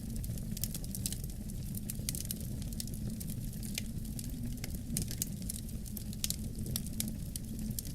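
Wood fire crackling in a fireplace, a dense, irregular run of sharp pops and snaps over a steady low rumble of wind.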